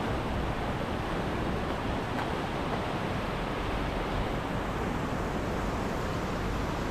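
Fast-flowing mountain water rushing: a steady, even noise with no change.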